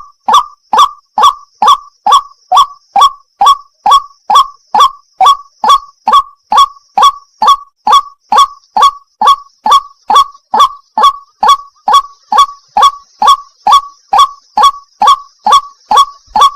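White-breasted waterhen (burung wak-wak) call: a steady run of short, loud 'wak' notes, each falling in pitch, repeated evenly about twice a second.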